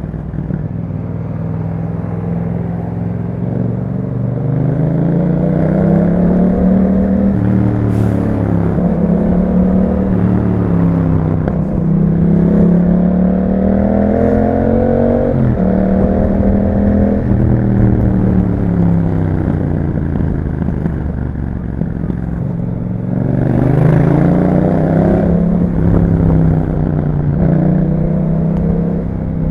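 2021 Yamaha MT-07's parallel-twin engine through an Akrapovic exhaust, under way: its pitch climbs repeatedly under throttle and falls back between pulls, with a sharp drop about halfway through and another strong climb near the end.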